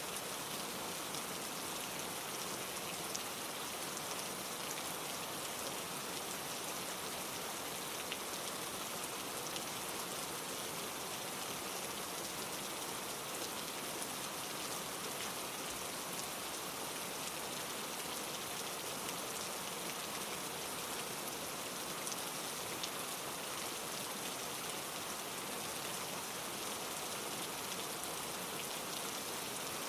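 Steady rain: an even, unchanging hiss with a few faint drop ticks scattered through it.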